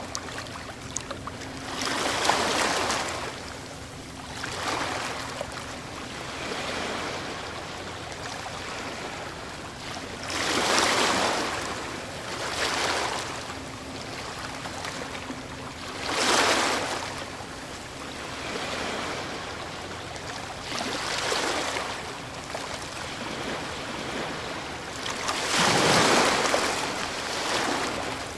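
Ocean waves breaking on the shore, swelling and receding every few seconds, with the biggest crashes about 2, 11, 16 and 26 seconds in.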